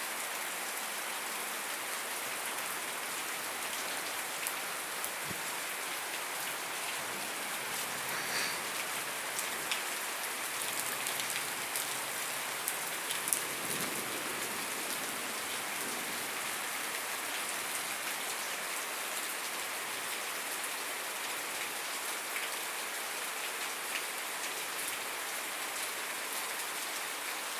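Steady heavy rain falling on surfaces, an even hiss with scattered individual drops and drips standing out now and then.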